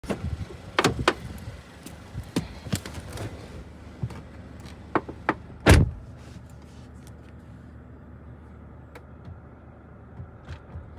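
Clicks and knocks in a car, the loudest a heavy car door thump about six seconds in, then a low steady hum.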